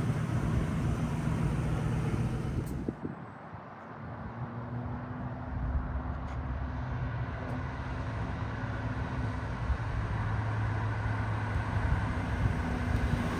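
The 1996 Ford Mustang SVT Cobra's 4.6-litre V8 idling as a steady low hum. About three seconds in, the sound dips briefly and then carries on evenly.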